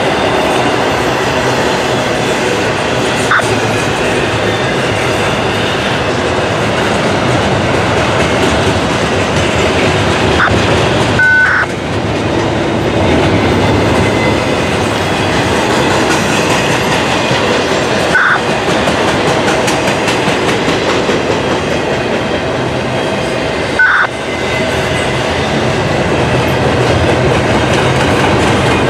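Norfolk Southern intermodal freight cars rolling past, a steady loud rumble of steel wheels on rail, with four brief sharp squeaks spread through it.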